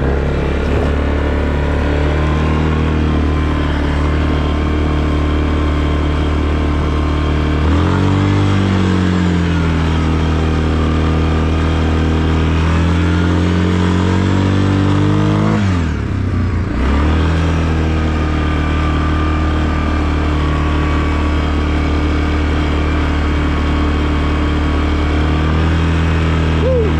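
All-terrain vehicle engine running while riding in snow. About a third of the way in the revs climb and hold higher for several seconds, then drop back sharply to a steady lower note for the rest.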